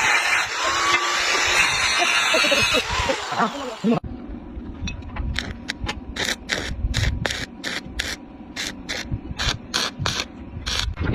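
Workshop tool noise: a loud, steady hiss for about four seconds. It cuts off abruptly and gives way to a run of sharp clicks or taps, about two or three a second.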